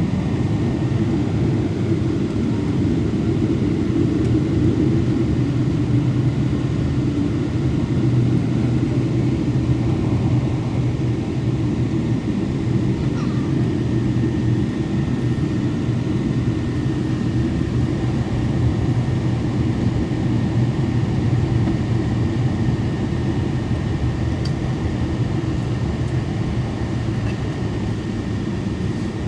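Cabin noise inside a Boeing 777 on the ground before takeoff: a steady, even rumble from the idling engines and cabin air, with a faint steady high whine over it.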